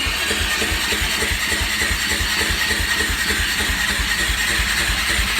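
Suzuki LTZ400's single-cylinder four-stroke engine being cranked over on the electric starter with an even, rapid pulse, not catching. It has a new stator and good spark, and the owner fears the ignition timing is off.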